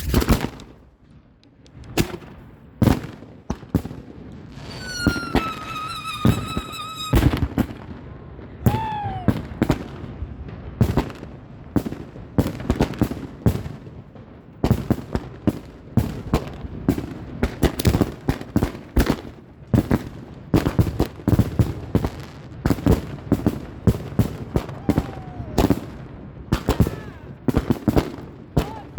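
Fireworks going off in a dense run of sharp bangs and crackles. A steady whistle is heard about five seconds in, and short falling whistles come later.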